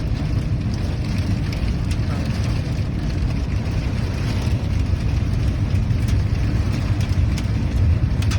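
Steady low rumble of a car running, heard from inside the cabin, with a few faint ticks.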